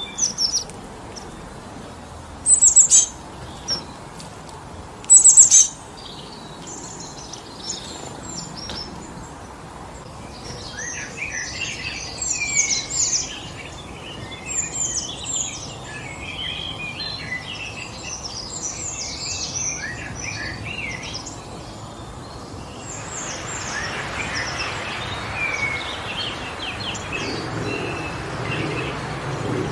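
Birds calling and singing in a forest. A few loud, sharp calls come in the first six seconds, then a dense chorus of many chirping birds starts about ten seconds in. Near the end, wind rises through the trees beneath the birdsong.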